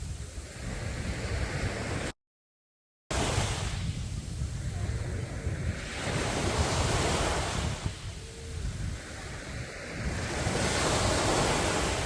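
Sea waves breaking on a beach, the surf swelling and falling back every few seconds. About two seconds in, the sound drops out completely for about a second.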